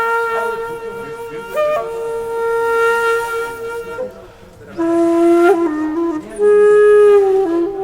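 Background music on a solo flute playing slow, long held notes with breathy attacks: one high note held for about four seconds, then a brief dip and lower notes that bend and step in pitch.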